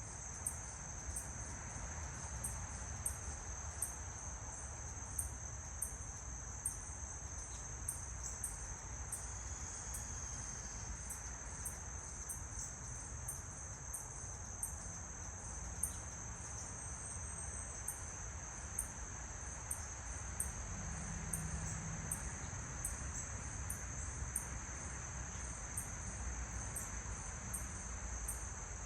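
Insects calling: a steady high trill with a sharp high chirp repeating about once a second.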